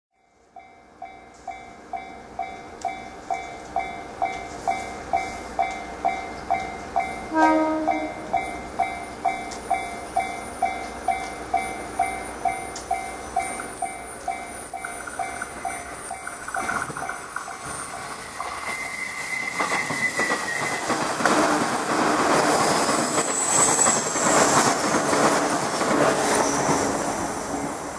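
Japanese level-crossing warning bell ringing at a little over two strikes a second. About seven seconds in, a 115-series electric train gives one short blast on its typhon horn. From about 17 s the train approaches and passes, growing loud, with its wheels clattering over the rail joints.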